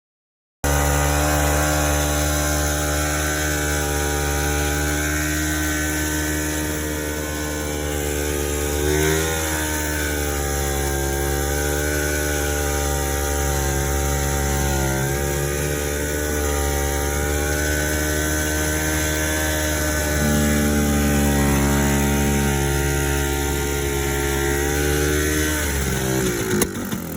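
Sachs SA280 single-cylinder two-stroke snowmobile engine running steadily, its revs rising and dipping slightly a few times, then falling away near the end.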